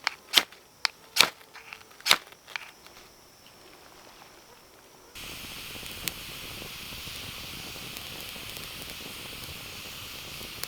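A handful of sharp clicks or snaps in the first few seconds. Then, from about halfway in, a strawberry guava wood campfire burning with a steady hiss and a single sharp pop.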